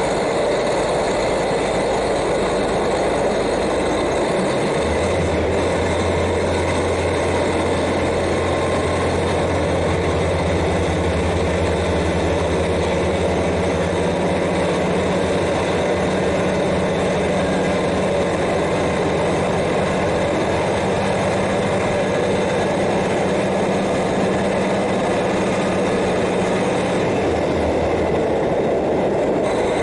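KiHa 40 diesel railcar's N-DMF13HZI engine heard from directly above, running together with the steady noise of the car rolling on the rails. A deep, steady engine note comes in about five seconds in and holds until near the end, when it fades.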